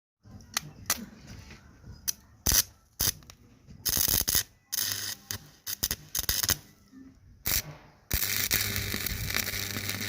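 Electric arc of a homemade salt-water welding machine: a run of sharp crackling strikes and short sputters, then from about eight seconds in a steady crackling arc over a low mains hum.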